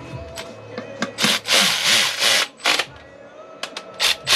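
Socket wrench ratcheting in quick bursts of strokes with a few clicks in between, as the rocker cover bolts are run down.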